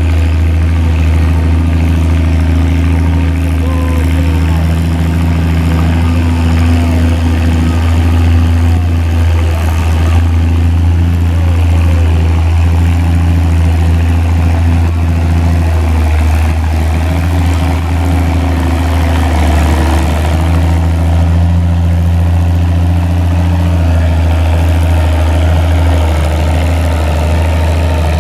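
Antique farm tractor engine running loud and steady at an even pitch.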